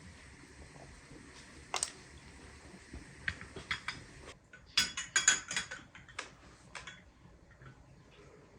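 Dishes and cutlery clinking and clattering as tableware is handled: scattered sharp clinks, with the loudest cluster about five seconds in, over a faint hiss that stops about four seconds in.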